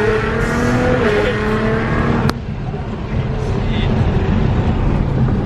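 Nissan GT-R R35's twin-turbo 3.8-litre V6 accelerating hard, heard from inside the cabin, its pitch rising for about two seconds. There is a sharp crack about two seconds in, then the engine runs steadily at a lower pitch.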